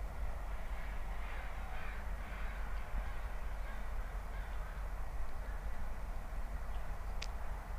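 Bird calls about one to three seconds in over a steady low rumble, with one short sharp click near the end.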